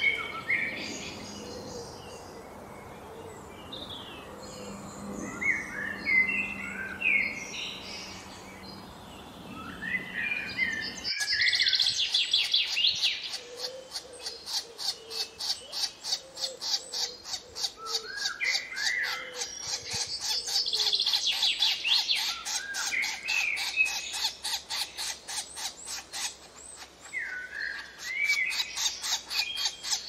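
Wild birds chirping and calling, with short rising and falling notes. About eleven seconds in the sound changes abruptly, and a fast, even series of rasping clicks at about five a second joins the chirps.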